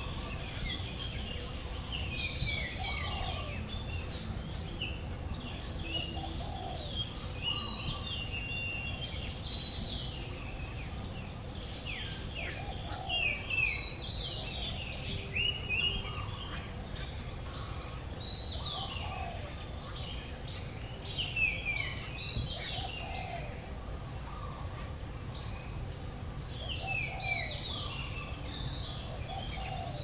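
Wild birds singing: a song phrase of quick, downward-sweeping notes repeats every four to five seconds, over a steady low background noise.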